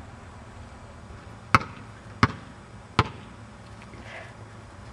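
Three sharp knocks, each one brief and loud, about three-quarters of a second apart, over a faint steady background hum.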